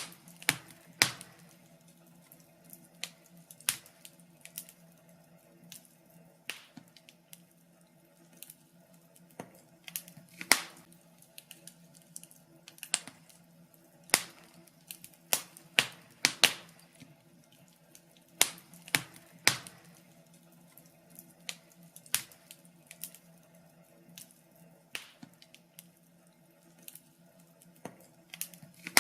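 Fire in a fireplace crackling: irregular sharp pops and snaps, some much louder than others, over a faint steady low hum.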